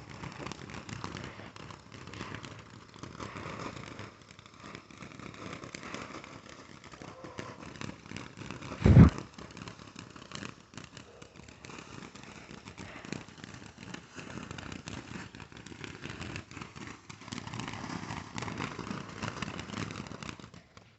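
Consumer fireworks crackling and popping continuously, with one loud bang about nine seconds in.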